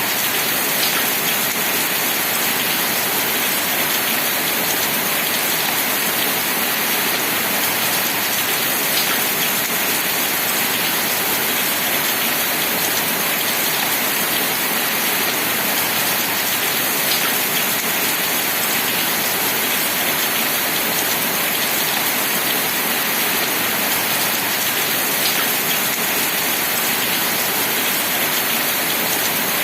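Steady rain falling, an even hiss of rain on a surface, with a faint tick about every eight seconds.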